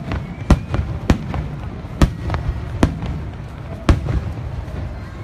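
Aerial fireworks shells bursting: a string of about six sharp bangs at uneven gaps of half a second to a second, over a steady low rumble.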